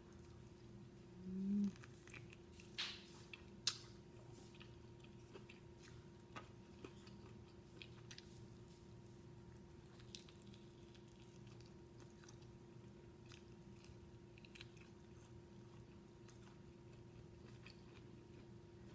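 Quiet chewing and biting into food, with scattered small crunches and mouth clicks, during a home-cooked fried chicken dinner. A brief low hum about a second in is the loudest sound, over a faint steady electrical hum.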